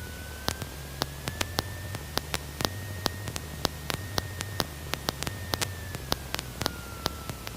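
Steady hiss on a light aircraft's intercom audio, broken by frequent sharp clicks. A faint whine drifts slowly up and back down, with a low engine hum underneath.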